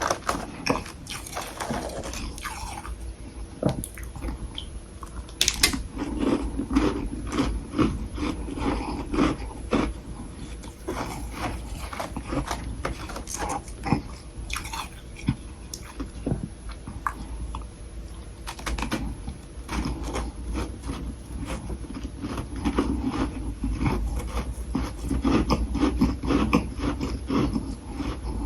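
Close-miked biting and chewing of soft humidifier frost sticks (freezer frost), a continuous run of soft crunches.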